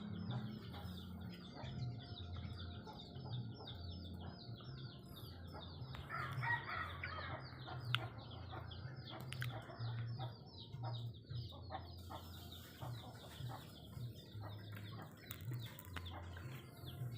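Birds calling with a continuous run of short, rapidly repeated chirps, while a bird bathes, with a brief flurry of wing flapping about six seconds in.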